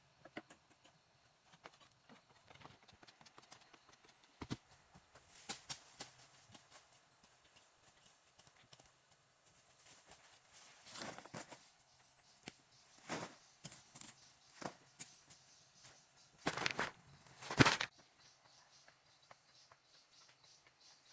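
Irregular knocks and taps at an uneven pace, with a few louder clattering knocks about three-quarters of the way through.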